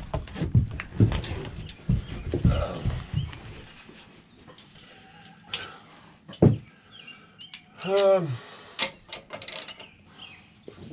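Tools and metal parts clanking and knocking, a rapid run of knocks for the first three seconds or so, then scattered clicks. About eight seconds in comes one short falling call, with faint chirps around it.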